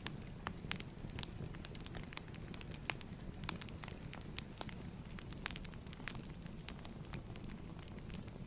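Fireplace crackling: irregular sharp pops and snaps of burning wood over a steady low rumble of flame.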